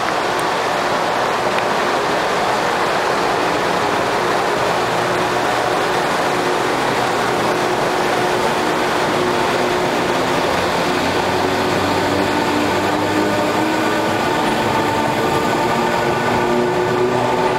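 Taiwan Railway EMU100 electric multiple unit running, with its British GEC DC series-wound traction motors giving a low hum over the rail and wheel noise. The motor tones grow clearer in the second half, the sound growing more noticeable as the train gains speed.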